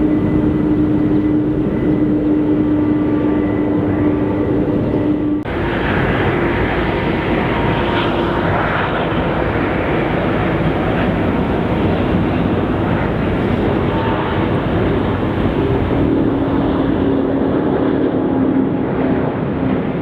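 Airliner jet engines running loud and steady at takeoff power. The sound shifts abruptly about five seconds in.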